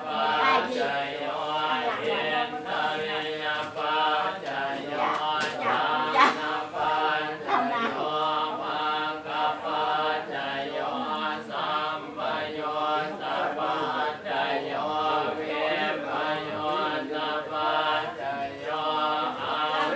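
A group of voices chanting a Buddhist chant together in a steady drone, with no break.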